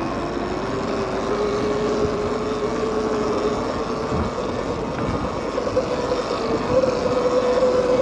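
Electric bike motor whining steadily, its pitch rising slowly as the bike gathers speed, over a rush of tyre and wind noise.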